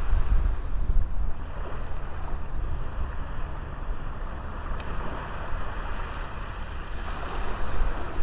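Sea waves washing onto a small beach, with wind rumbling on the microphone.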